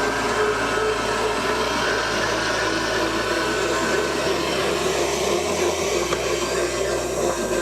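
Electric stand mixer running steadily, its motor and beater working a cake batter.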